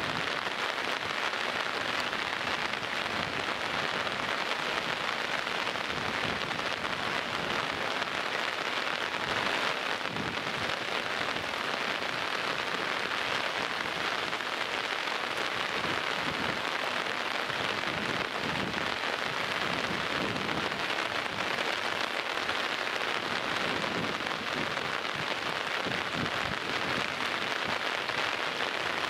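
Heavy downpour: steady rain falling, an even, unbroken hiss of drops.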